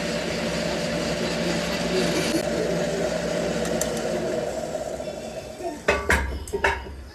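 Factory machinery running with a steady hum that fades away, then three sharp metallic clanks in quick succession near the end.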